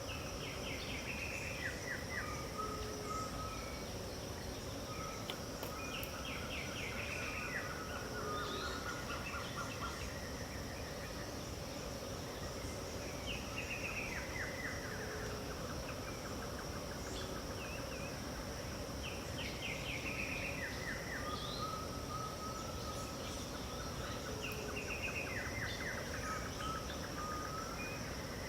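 Dawn birdsong in the Pantanal wetland: a bird repeats a phrase of chirps and buzzy trills about every six seconds, with other birds calling over a steady high-pitched insect drone.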